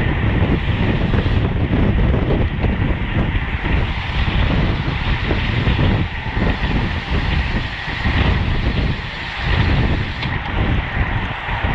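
Wind rushing over the microphone of a racing cyclist's camera, a steady gusting noise that rises and falls over the seconds.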